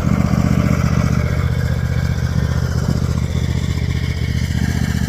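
Lawn mower's small engine running steadily while mowing overgrown grass.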